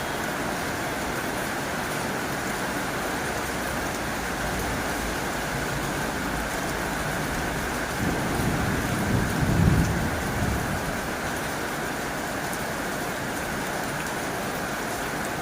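Heavy rain drumming steadily on a tin roof. A low rumble swells about eight seconds in and fades out within about three seconds.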